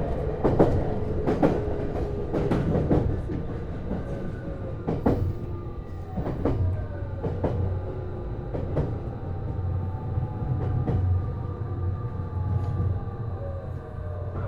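JR East HB-E210 hybrid train heard from inside the car: wheels clicking over rail joints, the clicks coming further apart as the train slows, with the Hitachi IGBT-VVVF inverter and traction motor whine falling in pitch over a steady low hum. This is typical of the train braking on its approach to a station.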